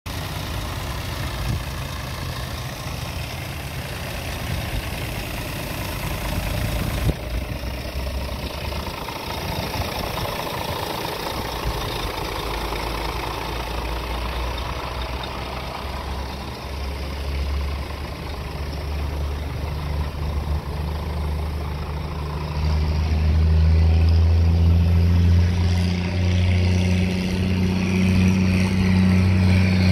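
Scania R 450 truck's six-cylinder diesel engine idling steadily, becoming clearly louder about 23 seconds in.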